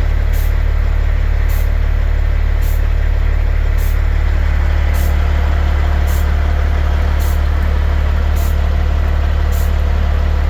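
A heavy dump truck's diesel engine idling steadily with a deep, even drone. A faint high tick repeats about once a second.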